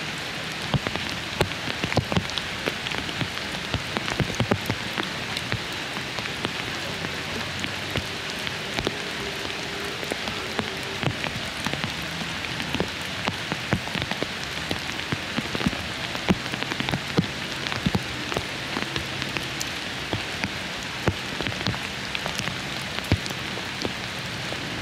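Steady monsoon rain falling, an even hiss broken by frequent sharp ticks of single drops landing close by.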